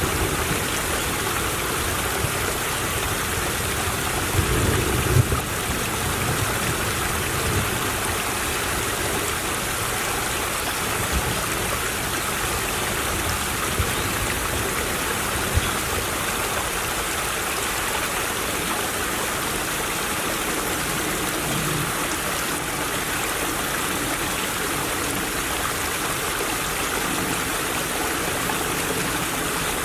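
A small stream babbling and trickling steadily over stones. A few low bumps come about four to five seconds in.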